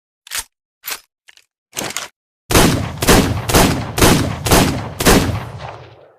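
Revolver gunfire sound effect: four short clicks, then six loud shots in quick succession about half a second apart, ending in a long echoing tail that fades away.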